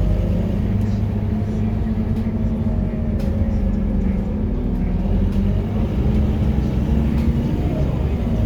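Scania K230UB city bus's five-cylinder diesel engine running under way, its pitch rising and falling gently with engine speed.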